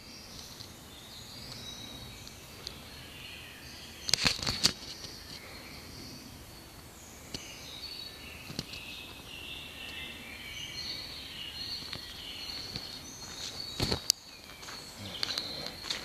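Woodland birds singing, several short calls and phrases overlapping against a steady outdoor background. Two brief bursts of noise cut in, one about four seconds in and one near fourteen seconds.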